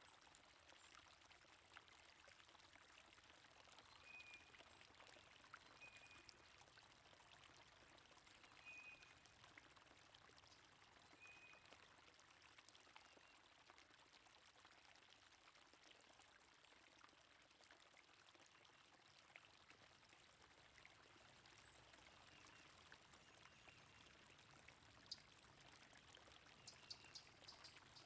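Faint, steady rush of flowing stream water, with a few short, high bird chirps now and then.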